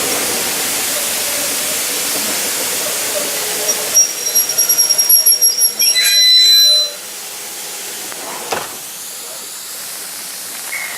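Steam locomotive hissing steam, then a louder burst of rapid pulsing hiss from about four seconds in that cuts off abruptly near seven seconds, leaving a quieter hiss.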